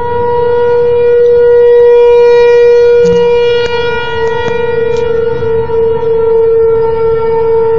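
Outdoor civil-defence tornado warning siren sounding a steady, unchanging pitch. It is loudest about two seconds in, then eases slightly.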